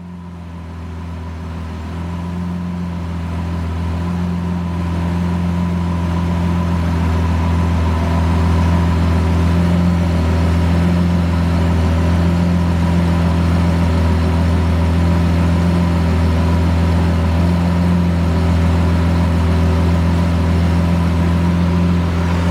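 Lamborghini Aventador's V12 engine, with a Capristo aftermarket exhaust, running at a steady low engine speed: a constant low drone that grows louder over the first several seconds, then holds level, with no revving.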